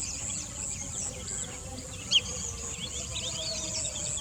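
Outdoor ambience of insects and small birds: a steady, pulsing high insect buzz under many short bird chirps, with one louder chirp about two seconds in. A low rumble lies underneath.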